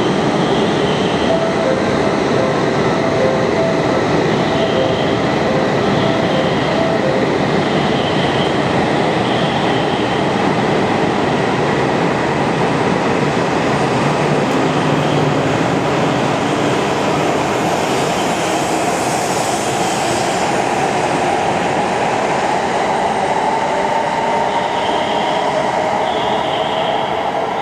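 Tohoku Shinkansen train moving through the station, a steady loud rush of wheel and rail noise. An electric motor whine rises in pitch through the second half.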